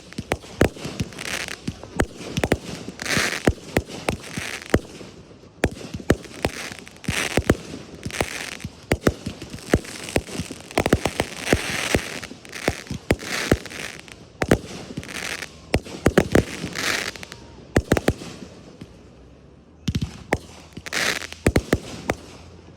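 Fireworks display: a rapid, irregular string of sharp shell bursts and reports with a noisy hiss between them. It thins out briefly near the end before a few more bursts.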